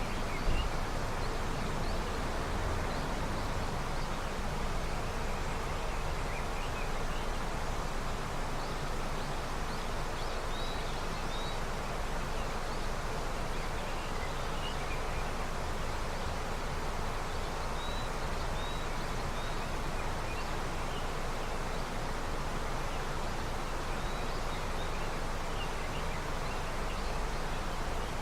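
A river running steadily with early snowmelt, with faint short bird chirps now and then. A brief knock comes about half a second in.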